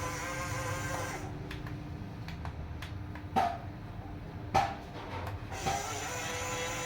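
Small electric motor and plastic gearing of a remote-control toy construction vehicle whining. The whine stops about a second in, gives way to a few sharp plastic clicks and knocks, the two loudest in the middle, then starts again near the end with a wavering pitch.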